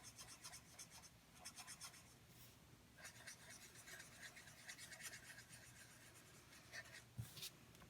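Faint, quick back-and-forth strokes of an alcohol marker colouring on cardstock, a soft scratching several strokes a second, with a light knock near the end.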